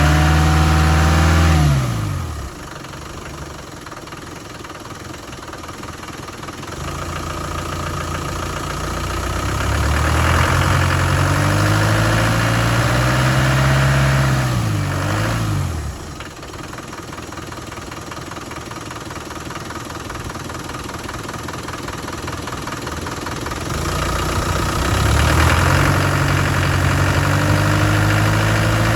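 Land Rover Defender engine running during its cold-start warm-up, alternating between raised revs and idle. The revs drop to idle about two seconds in, climb again around eight to ten seconds, fall back at about fifteen seconds, and rise once more near twenty-five seconds, where they stay.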